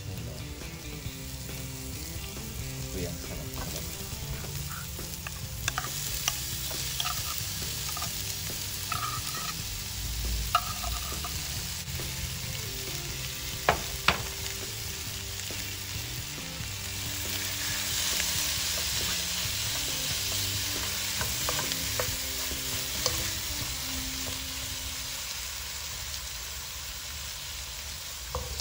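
Canned corned beef and sliced red onions sizzling in a hot wok while a wooden spatula stirs and scrapes them, with a few sharp knocks of the spatula. The sizzle grows louder for a few seconds a little past the middle.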